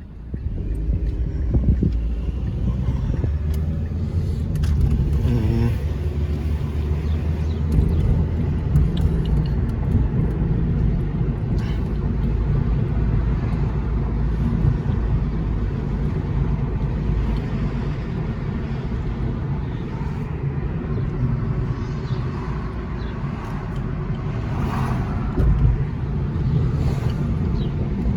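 Car driving: a steady low engine and road rumble that comes in abruptly at the start and holds on.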